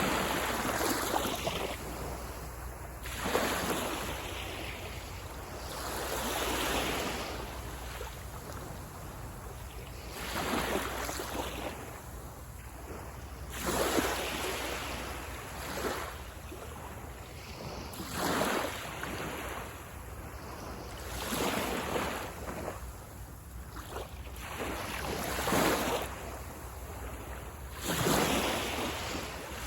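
Small sea waves breaking on a sandy beach, the surf swelling and washing back every few seconds in an uneven rhythm, with a steady low rumble of wind on the microphone beneath.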